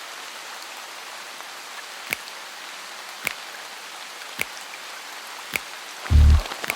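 Steady rain hiss with four evenly spaced drips, each dropping in pitch, about a second apart. A loud deep bass note comes in briefly near the end.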